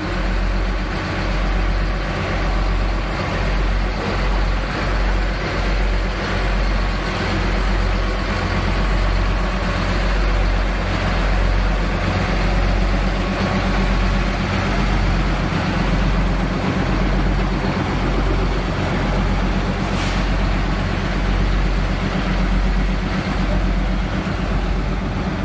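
A large vehicle engine running steadily: a low, pulsing rumble with a constant wash of running noise over it.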